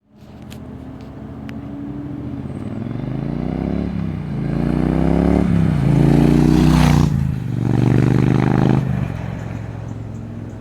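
Triumph T120 parallel-twin motorcycle engine through its exhaust, idling, then blipped about four times, each rev rising and falling, before settling back to idle.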